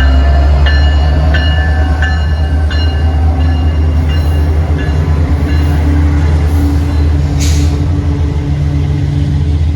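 A train passing close by, with a loud steady low rumble and a few steady low engine tones. Short ringing strikes come about every two-thirds of a second and fade out by the middle, and there is a brief hiss about seven and a half seconds in.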